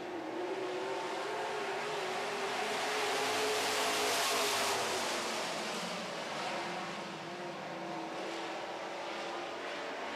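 A pack of dirt-track super trucks running at full throttle on the green-flag restart. Engines from several trucks blend together, swelling loudest about four seconds in as the field passes closest, then easing.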